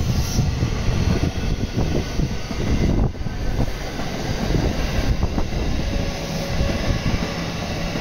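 A JR West local electric multiple-unit train passing close by, with a steady rumble of wheels on the rails and frequent irregular knocks.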